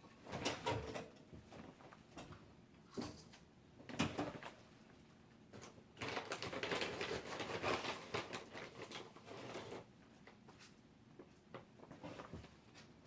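Household handling noises: scattered knocks and clicks, with a longer stretch of rustling from about six to nine and a half seconds in.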